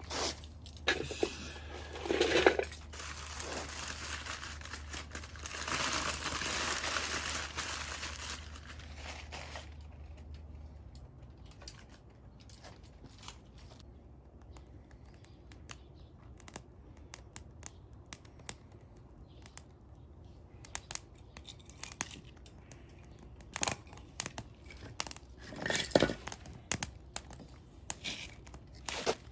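Campfire being laid and tended: crinkling and rustling for the first ten seconds, then scattered small clicks and crackles, with a few louder knocks near the end.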